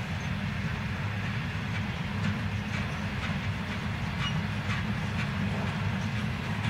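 Container wagons of a long freight train rolling past: a steady low rumble with irregular clicks from the wheels on the track.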